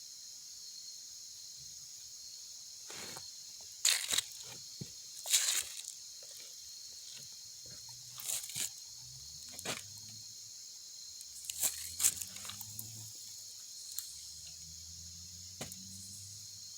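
Steady high-pitched chorus of crickets, broken by scattered short clicks and rustles, the loudest about four and five and a half seconds in. A faint low hum comes and goes in the second half.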